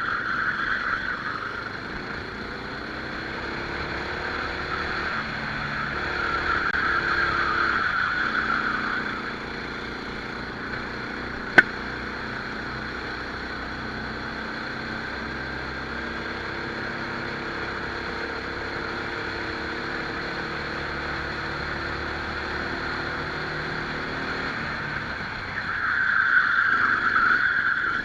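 Rental kart engine heard onboard during a race, its pitch rising and falling as the driver accelerates and lifts through the corners. It gets louder around the start, from about 6 to 9 seconds in, and again near the end. One sharp click comes about 11 seconds in.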